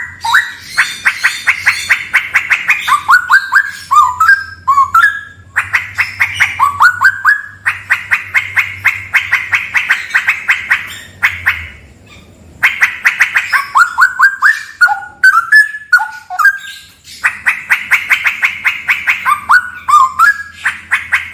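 Straw-headed bulbul (cucak rawa) singing loudly. It gives phrases of rapid repeated notes, several ending in a few rising whistled notes, with a short pause about twelve seconds in.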